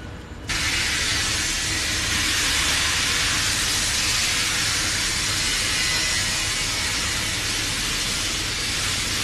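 A loud, steady hiss that starts suddenly about half a second in, with a low rumble underneath.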